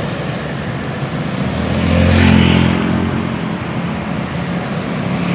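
Road traffic: a motor vehicle's engine running with road noise, growing louder about two seconds in and then easing back.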